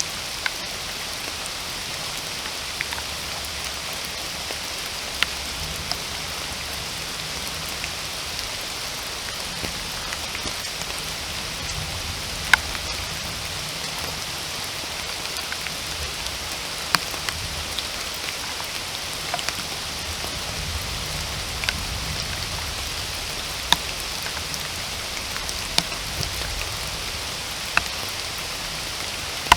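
Steady rain, an even hiss with scattered louder single drops ticking sharply, about one every second or two.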